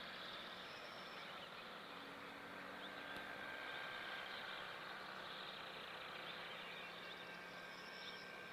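Many small birds chirping and twittering together over a steady, fairly quiet outdoor background with a faint low hum.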